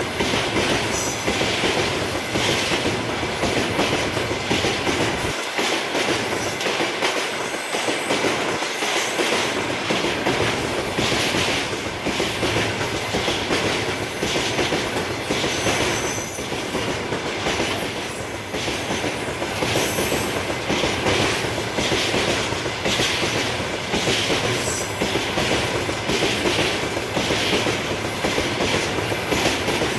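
Freight train wagons rolling past at speed: a steady, continuous clatter of wheels over the rails, with faint high-pitched wheel squeal.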